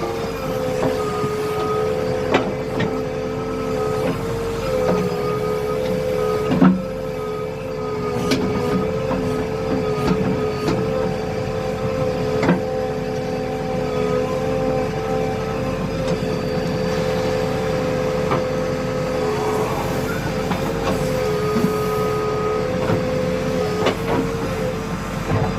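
Diesel engine of a heavy machine running at a steady speed with a constant hum, with scattered knocks and rattles, the loudest about six and a half seconds in.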